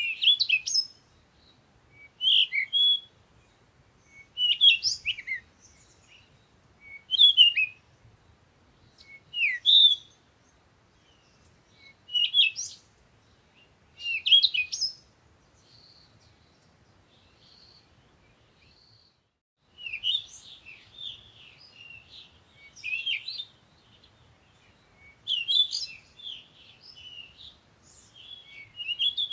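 Songbird singing short phrases of quick high chirps and trills, one about every two and a half seconds. After a lull of a few seconds with only faint notes, the chirping grows denser and more continuous.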